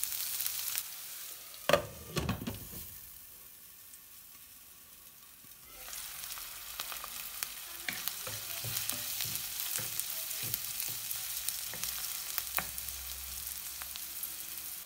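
Chopped onion, green chillies and curry leaves sizzling in hot coconut oil in a nonstick wok while being stirred with a wooden spatula. A few loud knocks come about two seconds in, and from about six seconds the sizzle gets louder, with scattered crackles and pops.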